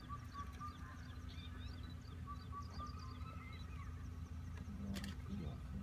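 Several wild birds chirping and whistling, with a repeated short whistled note among them, over a low steady hum. A single sharp click about five seconds in.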